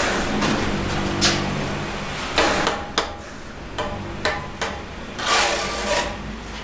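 A bricklayer's steel trowel knocking and scraping against cement bricks and mortar: about ten irregular sharp clinks, with a longer scrape about five seconds in. A low steady hum runs underneath.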